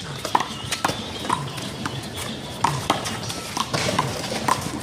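A quick, irregular series of sharp smacks from a one-wall handball rally: a small rubber handball struck by hand, hitting the wall and bouncing off the pavement.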